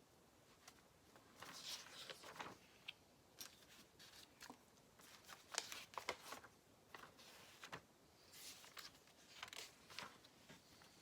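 Faint clicks and rustling of small plastic Lego pieces being handled and pressed together, in irregular bursts.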